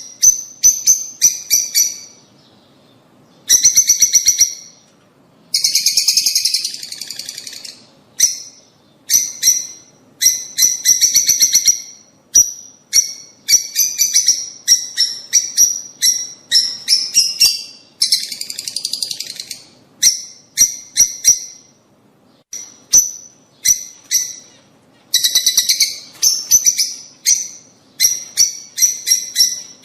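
Lovebirds calling: rapid runs of shrill, sharp chirps broken by short pauses, with a few longer bursts of harsher screeching chatter.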